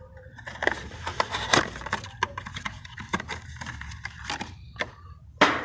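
Irregular clicks, knocks and rustles of parts and tools being handled while a replacement capacitor is fitted in an air-conditioning unit, with one sharper knock near the end.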